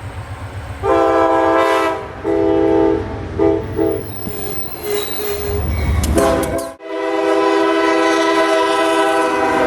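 Freight train's diesel locomotive air horn sounding a series of blasts, long ones and short ones, ending with a long held blast, over the low rumble of the locomotive.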